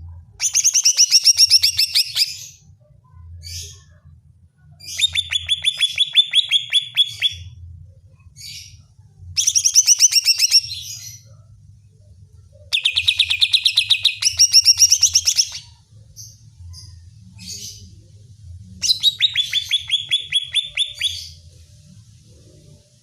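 Cucak ijo (greater green leafbird) singing in five loud bursts of rapid trilling, each about two seconds long, with short single calls between them. It is a challenge song of the kind played to rile up a kept cucak ijo.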